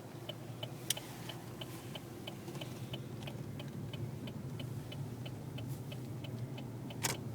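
Car turn-signal indicator clicking, about three ticks a second, over the low hum of the car's cabin. A sharp knock sounds near the end.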